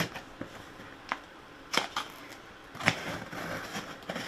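A cardboard shipping box being opened by hand: packaging rustling with a few sharp crackles and snaps, the loudest near the end.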